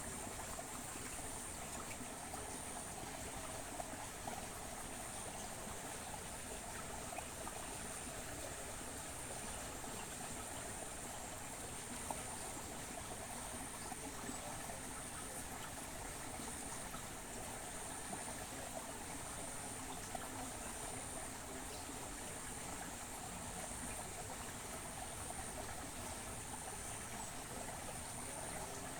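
Steady trickle of running water, with a high, thin insect trill that pulses on and off at an even pace.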